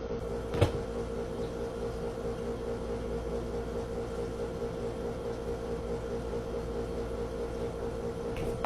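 A steady mechanical hum at an even level, with a single short click about half a second in.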